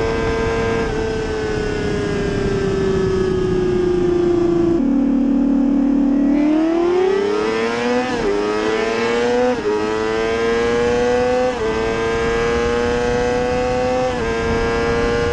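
Inline-four sport bike engine heard from the bike itself, running at high revs over wind rush. The revs sag gently, drop about five seconds in, then the engine pulls hard under full throttle, rising in pitch and upshifting four times, each shift a quick dip in pitch.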